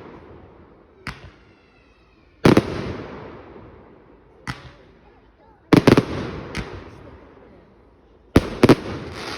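Firework display: aerial fireworks going off in a series of sharp bangs every second or two, some in quick pairs. The biggest bangs trail off over a couple of seconds.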